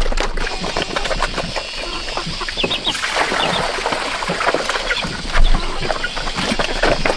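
Chickens clucking amid a busy patter of small clicks and knocks.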